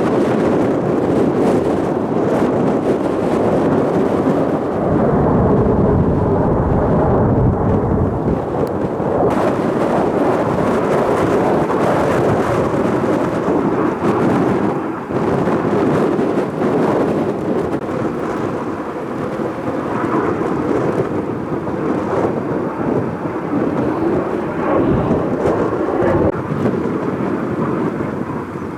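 Jet roar of Blue Impulse Kawasaki T-4 trainers in a formation pass, a continuous rumble that swells about five to nine seconds in, mixed with strong wind buffeting the microphone.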